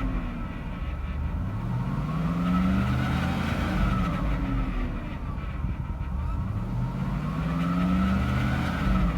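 A 2004 Cadillac Escalade's 6.0-litre all-aluminium V8 running and revved gently twice, its pitch rising smoothly and settling back each time.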